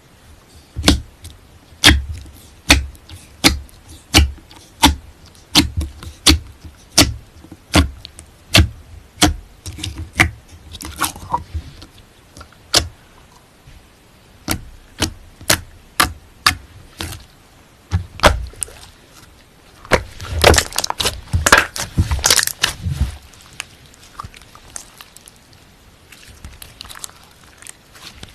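Slime being pressed and poked, making sharp pops: a regular run of about two a second for the first ten seconds, then scattered pops, and a dense burst of crackling about twenty seconds in.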